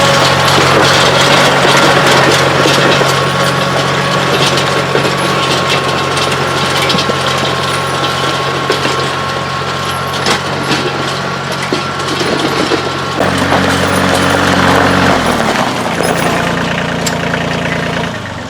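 Kioti CK2610 compact tractor's diesel engine running steadily under work, with a steady high whine alongside. About two-thirds of the way through, the engine speed rises for a couple of seconds and then drops back, and the sound cuts off just before the end.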